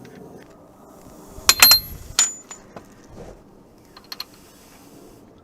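Small metal parts and tools clinking, with short bright rings: a quick cluster of clinks about one and a half seconds in, another clink just after two seconds, then two light ticks near the end.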